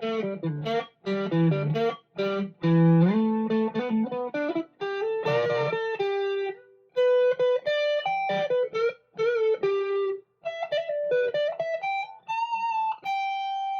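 Electric guitar played through an amp sim: a lick of short picked single notes with a few bends, ending on a held note that rings out near the end.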